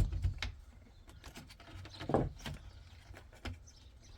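Scattered clicks and knocks of small parts and tools being handled while a steering wheel is taken apart, with a sharp knock at the start and a louder one about two seconds in.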